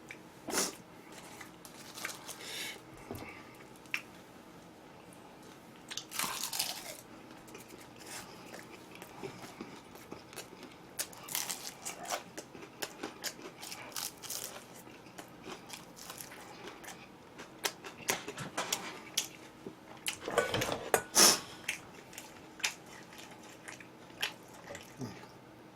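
Close-up eating sounds: crunchy bites into Kyochon Honey Combo fried chicken and chewing, as a series of separate crunches with pauses between them, the loudest about three-quarters of the way through.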